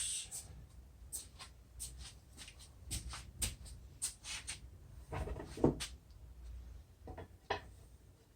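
Scattered light clicks and knocks, irregularly spaced, from parts and tools being handled while the miter saw fence is being fitted. A slightly louder cluster of knocks comes about five to six seconds in.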